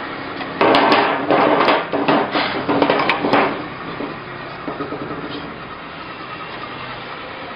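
CBJ-5 hammer-handle lathe working wood: a loud, rough cutting noise with a few sharp knocks starts about half a second in and lasts about three seconds, then the machine keeps running more quietly.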